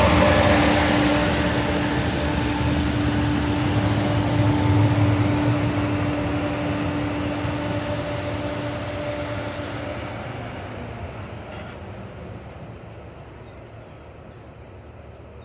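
Train of a DRS Class 68 diesel locomotive and nuclear flask wagons running past and receding, its rumble fading steadily. A steady hum stops about ten seconds in, and a brief hiss comes just before that.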